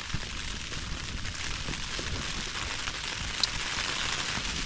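Rain pattering steadily on the tent fabric, an even crackly hiss of many small drops, with one sharper tick a little past halfway.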